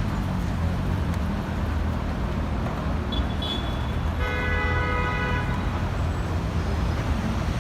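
Steady street traffic rumble, with a brief high squeak about three seconds in and a vehicle horn sounding for about a second just after four seconds.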